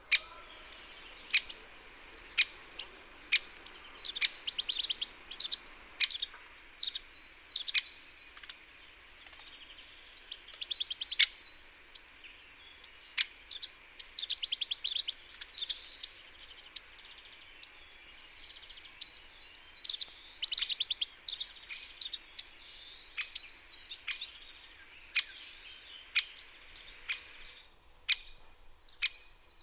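Small garden songbirds chirping and calling, with quick high trills in clusters and short pauses between them, and a few sharp clicks scattered through.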